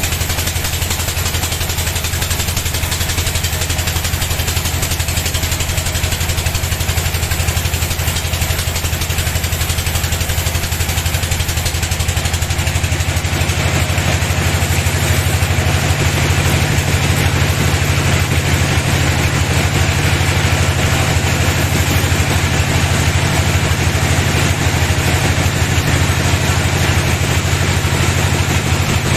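Sawmill band saw machine running with a steady low engine hum and a broad rushing noise. The sound grows fuller and a little louder about halfway through.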